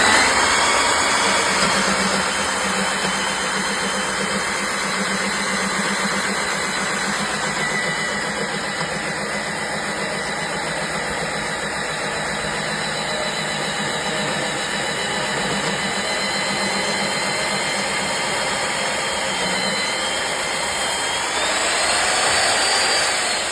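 Electric core cutting machine running steadily as its core bit bores through a 9-inch concrete beam, a motor whine over a grinding rumble. Near the end the whine rises in pitch, then falls away.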